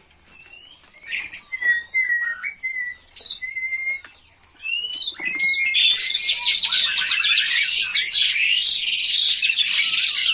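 Scattered short whistled bird chirps. About five seconds in, a dense, loud chorus of rapid high chirping starts: oriental magpie-robin nestlings begging.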